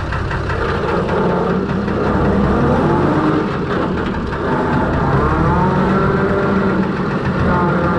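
Six-cylinder Perkins diesel in a Fordson Major tractor running while the tractor drives along, its pitch rising and falling a little.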